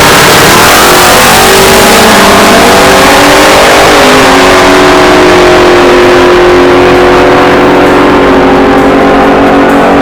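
A vehicle engine at high revs, very loud and distorted, its pitch climbing gradually with a step about four seconds in, then holding steady.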